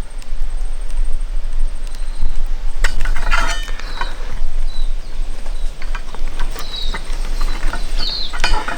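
Light metallic clinks and taps from steel pieces and tools being handled, a cluster about three seconds in and more near the end, over a steady low rumble. Short high chirps come and go.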